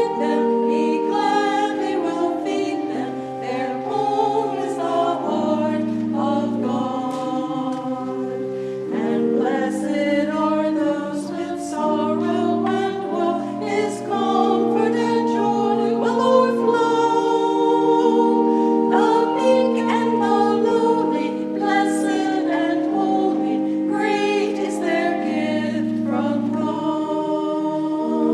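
Choir singing a hymn with sustained chords held underneath, the chords changing every second or two.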